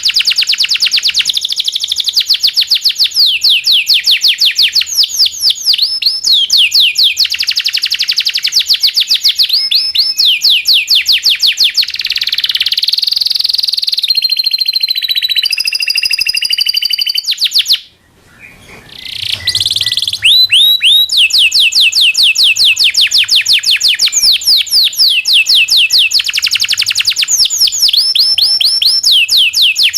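Local canary singing a long song of fast rolling trills, with a steadier held whistled phrase a little before halfway. After a brief break just past halfway, the rapid trilling resumes.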